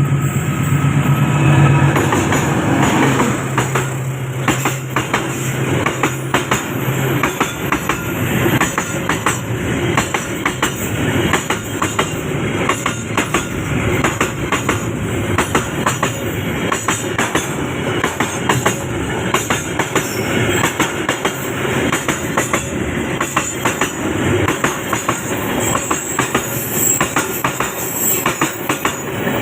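Train passing close by. A locomotive's low engine hum fades out about seven seconds in, followed by a long string of carriages clattering, with rapid wheel clicks over the rail joints.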